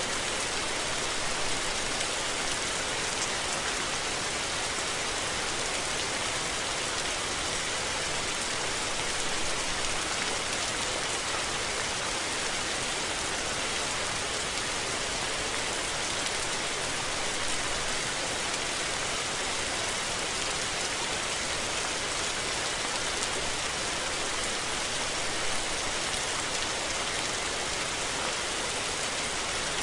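Steady rainfall: an even hiss of rain falling on surfaces with fine pattering, with no rise, fall or break.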